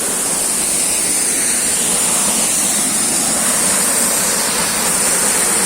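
Large waterfall with a steady, loud rush of falling water.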